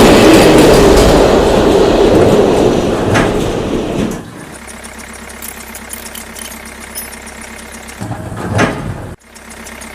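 A motor running: loud and rough for about four seconds, then dropping to a quieter steady hum, with a short louder burst near the end.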